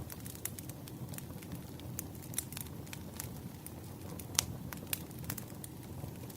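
Wood fire crackling: irregular sharp pops and snaps of burning firewood over a low steady rumble of the flames, with one louder pop a little past the middle.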